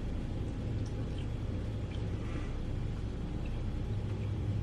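Steady low mechanical hum, growing a little louder near the end.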